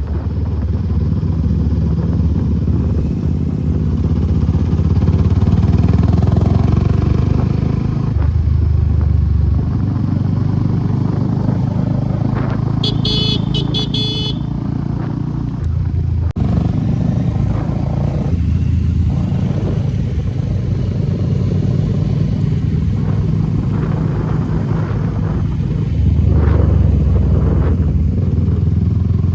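Suzuki Gixxer SF250's single-cylinder engine with an aftermarket Akrapovic exhaust running under way, its note rising and falling with the throttle. About halfway through, a horn beeps several short times.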